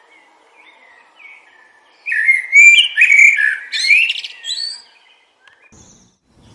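A songbird sings a loud, rapid phrase of chirping, warbling notes, starting about two seconds in and lasting about three seconds, with a few faint chirps before it. A faint steady wind hiss runs underneath.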